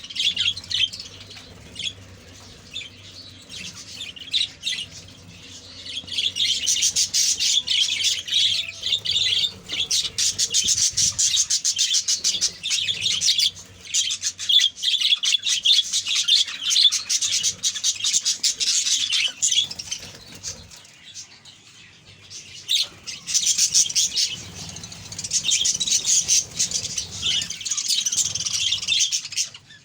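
A colony of budgerigars chattering in dense, rapid high chirps, busy for long stretches with a couple of quieter lulls.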